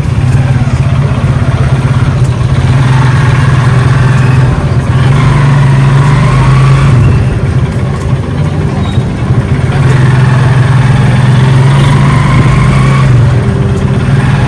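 Motor vehicle engine running steadily in road traffic, a loud, constant drone that shifts in pitch a few times, with other vehicles passing.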